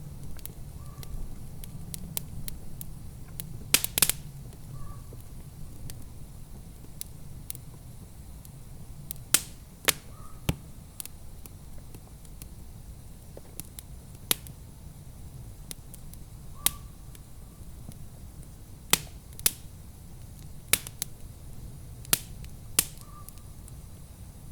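Wood fire crackling in a fireplace: irregular sharp pops and snaps, a few of them loud, over a steady low rumble.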